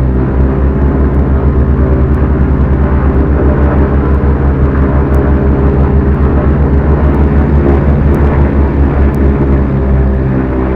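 Beechcraft Duchess's twin four-cylinder Lycoming piston engines and propellers running steadily in flight. The loud drone has a fast, regular pulsing in it.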